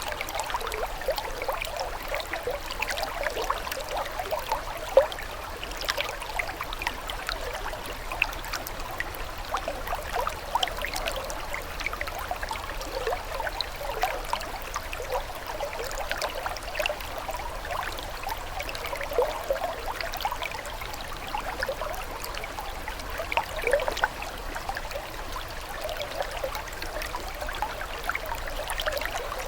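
Water trickling and bubbling steadily, a continuous babble of many small gurgles and splashes.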